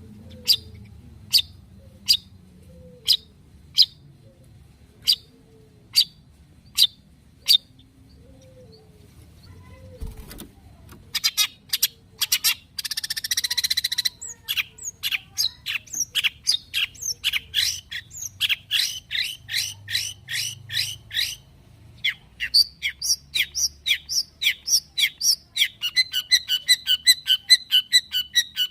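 Long-tailed shrike (cendet) singing. It gives about nine sharp single calls, evenly spaced, then breaks into a fast chattering song with a harsh rasping burst, and the notes quicken toward the end.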